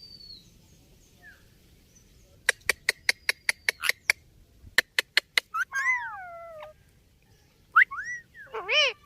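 Indian ringneck parakeet giving a quick run of sharp clicks, about six a second, in two bursts. These are followed by a few whistled squawks: a long falling one, a short rising one, and a wavering one near the end.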